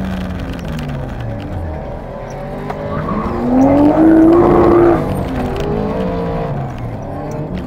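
Nissan Skyline R32's RB25 turbocharged straight-six heard from inside the cabin: the revs drop over the first two seconds, then climb hard to a peak about four seconds in and ease off again, with tyre squeal from a car sliding.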